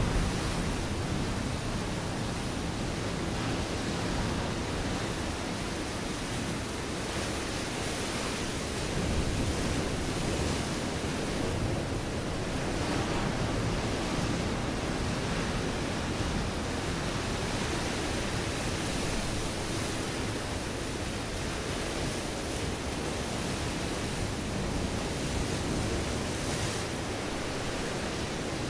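Ocean waves breaking on a rocky shore: a steady wash of surf that swells a little a few times.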